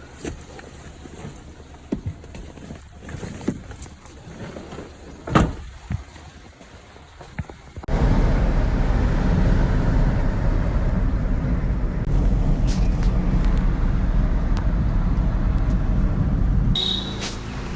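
Scattered light knocks and clicks over a quiet background, then, about eight seconds in, a sudden switch to the loud, steady low rumble of a vehicle in motion. A short high-pitched beep sounds near the end.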